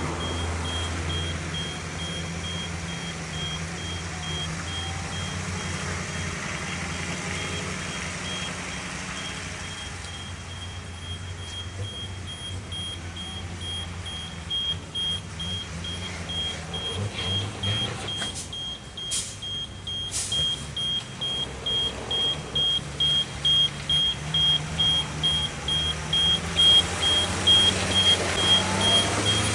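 A heavy vehicle's engine running, with a high repeating electronic beep like a reversing alarm. A few sharp knocks come around the middle, and the sound grows louder in regular pulses toward the end.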